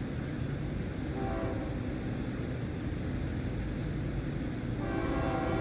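Florida East Coast freight train rolling past with a steady low rumble. The locomotive horn gives a short blast about a second in, then starts a longer blast near the end, sounding for a grade crossing.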